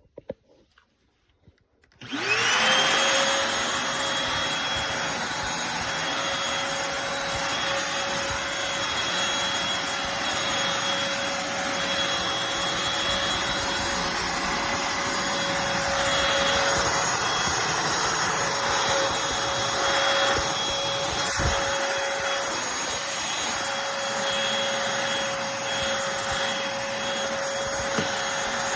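Eureka Blaze stick vacuum switched on about two seconds in, its motor whining up to speed and then running steadily, a constant whine over rushing air.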